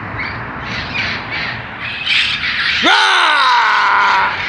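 A flock of wild parrots squawking in short harsh calls, then one long loud cry about three seconds in that rises sharply and slowly falls away.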